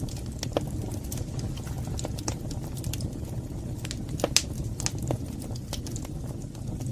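Wood fire burning in a fireplace: a steady low rumble of the flames with frequent irregular crackles and pops, the sharpest pop about four seconds in.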